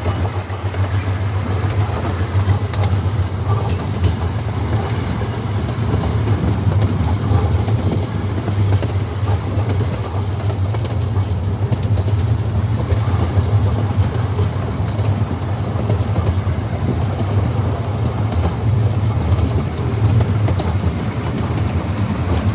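Miniature amusement-park train running steadily along its track, heard from aboard: a continuous low rumble.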